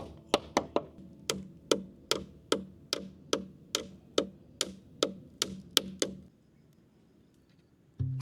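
A tool striking wood in quick, evenly spaced sharp knocks, about two or three a second, stopping about six seconds in.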